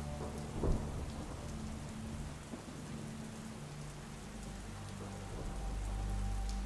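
Steady soft rain pattering, under held low sustained notes of an ambient score. A sharp low thump comes about a second in, and a deep low rumble swells up in the second half.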